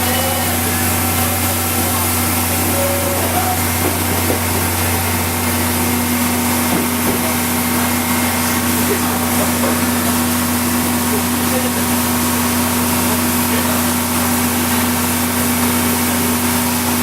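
A locomotive standing at the station, giving off a steady machine hum with a constant hiss and no rhythm.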